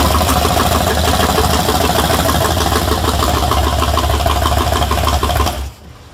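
All-aluminium LS6 V8 in a jet boat running steadily on its first firing, then shut off about five and a half seconds in, the sound cutting off abruptly.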